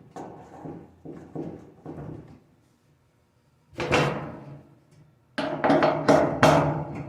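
Knocks and clunks of dryer parts being handled as the greased drum support rollers go back on. Light clatter at first, then a single hard knock about four seconds in, then a quick run of sharp knocks that ring briefly near the end.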